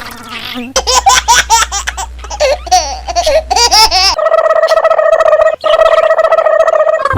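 A baby's giggling laughter in quick bursts for about three seconds, then a steady held electronic-sounding tone that breaks off once, briefly, before going on.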